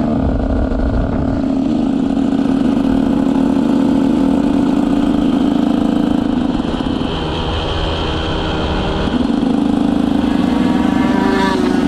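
125cc two-stroke motocross bike engine running under steady throttle while being ridden. It eases off about seven seconds in and picks up again about two seconds later.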